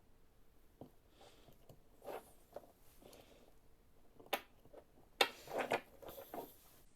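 Handling noises as an ignition coil is fitted onto a spark-gap tester: scattered light clicks and rustles, with sharper knocks about four and five seconds in.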